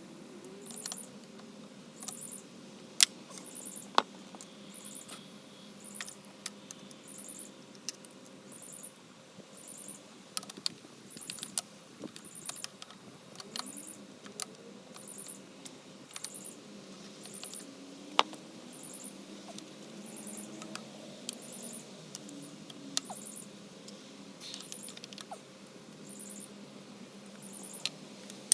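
Scattered small clicks and sharp metallic taps of hand tools working on an engine being taken apart, a few of them louder knocks.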